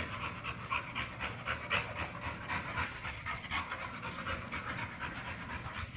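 American Bully dog panting fast and steadily, a quick even rhythm of short breaths, a dog cooling itself in the heat.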